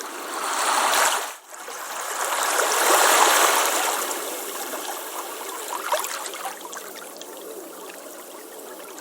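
Ocean waves washing onto a beach: a wave surges about a second in and cuts out for a moment, then a larger wash builds to a peak around three seconds and slowly fades back into a soft fizzing trickle of water.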